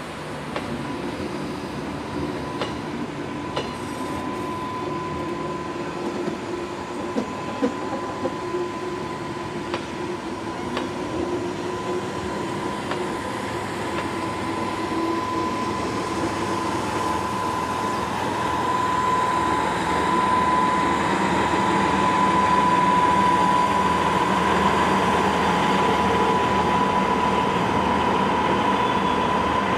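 Narrow-gauge Matterhorn Gotthard Railway train rolling slowly past, coaches first and then the Deh 4/4 electric motor car. There is a steady high whine and scattered clicks of wheels over rail joints in the first third, and the train grows louder over the last third as the motor car draws near.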